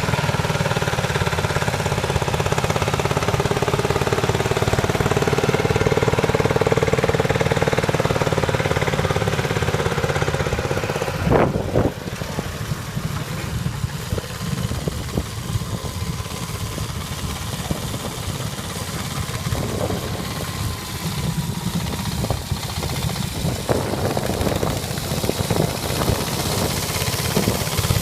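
A tractor engine running with a dense, rapid chugging. About eleven seconds in there is a sharp knock, and the sound drops in level and continues less loudly.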